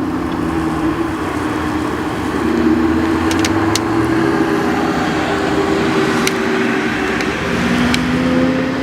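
A high-performance car's engine running as the car is driven around a sprint track, its note holding and then shifting pitch a few times as it changes speed. A few sharp clicks sound over it.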